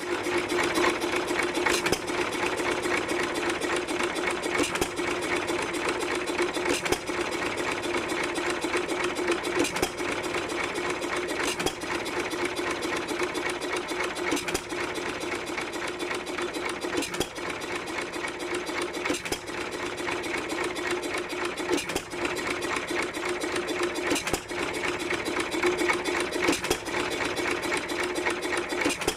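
Economy 3 1/2 hp single-cylinder stationary engine running with a steady mechanical clatter, a sharp stroke standing out about every two to three seconds. The engine has a newly repaired big-end bearing and is running well.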